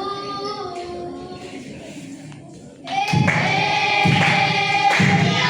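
Jongo singing by a group: the voices trail off and thin out, then about three seconds in the chorus comes back loud on a held note over low drum beats that fall roughly once a second.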